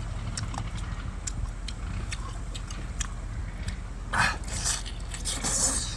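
A person chewing and eating seafood: scattered small clicks and smacks, with two short noisy rustles in the second half, over a steady low hum.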